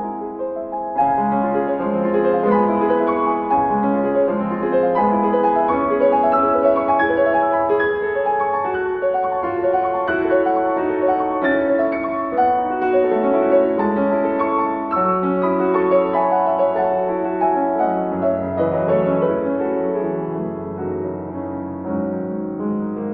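Background piano music, a steady run of notes with a deeper bass line coming in near the end.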